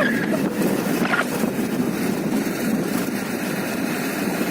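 Motorcycle on the move: a steady rush of engine, road and wind noise, with wind buffeting the microphone.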